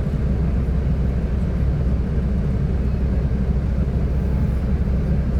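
Class 172 Turbostar diesel multiple unit running along the line, a steady low rumble of engine and wheels heard from on board.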